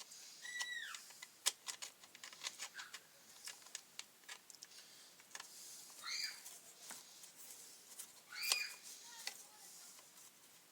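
Small sharp clicks and taps of a screwdriver and screws on the plastic housing of a grass trimmer as its back cover is unscrewed. A few short, high chirps come in about half a second in, around six seconds and around eight and a half seconds.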